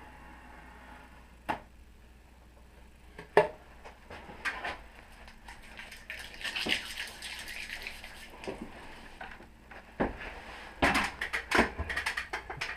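Handling noises: scattered sharp knocks and clicks, with a stretch of rustling in the middle and a quick run of clicks and knocks near the end.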